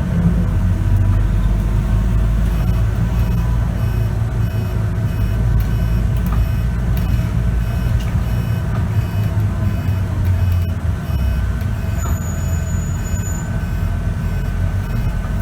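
Scania K94UB bus engine and ZF automatic gearbox running under way, heard from inside the bus: a loud low rumble with a steady whine. A regular series of short, high beeps sounds through the middle of the stretch.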